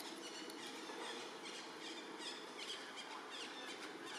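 Small birds chirping over a steady outdoor background hum: many short, high, falling chirps, several a second.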